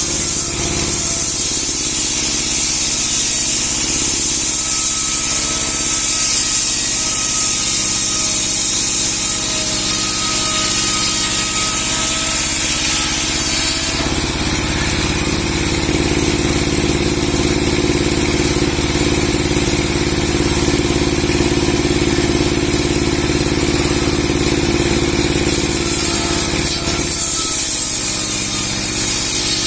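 A 30 hp sawing machine with a 60 cm steel saw blade running steadily as it saws through a large log, with a loud, continuous engine-and-blade drone. About halfway through the sound shifts and the lower hum grows stronger, as the load on the blade changes.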